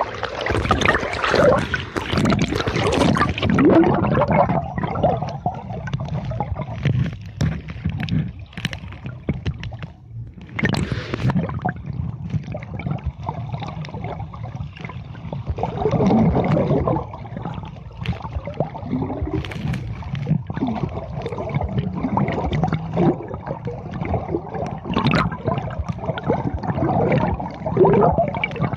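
Water gurgling and sloshing around a camera filming underwater, in uneven swells.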